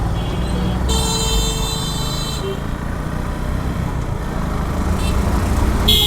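Traffic heard from a moving motorcycle: a steady low engine and wind rumble, with a high-pitched vehicle horn sounding for about a second and a half near the start and another short horn blast at the very end.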